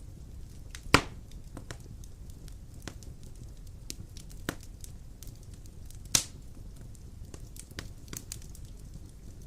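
Large wood logs burning in a fireplace: a steady low rumble of flame with scattered crackles, and two loud sharp pops, about a second in and about six seconds in.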